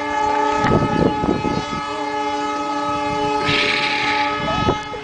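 Train horn sounding one long steady blast that stops just before the end, over the rumble of the train. A burst of hissing comes about three and a half seconds in.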